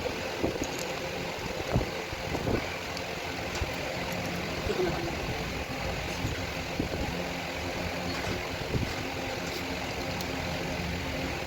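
An engine idling steadily, with a few short clicks or knocks in the first few seconds.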